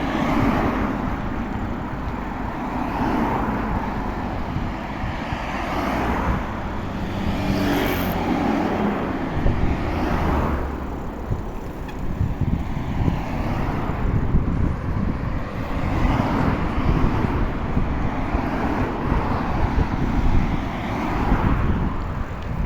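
Road traffic: several cars pass one after another, each swelling and fading over a few seconds, over a steady low rumble.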